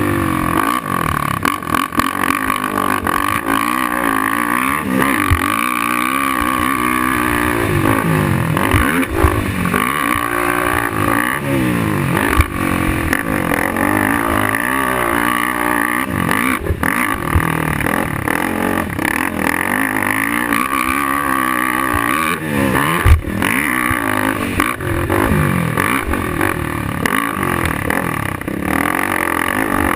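Suzuki LT-R450 quad's single-cylinder four-stroke engine revving up and falling back again and again as it is ridden around a motocross track. A few sharp knocks cut through, the loudest about 23 seconds in.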